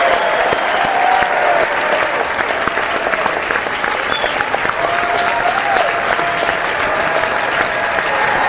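Audience applauding: many hands clapping in a dense, steady stream that neither swells nor dies away.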